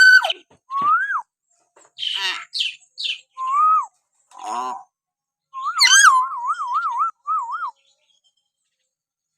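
Hill myna whistling: short rising whistles, a few harsh, rasping calls, then a fast wavering whistle trill over a couple of seconds, with silent pauses between phrases.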